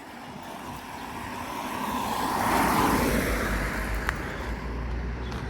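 A car passing by, getting louder to a peak about halfway through and then fading away.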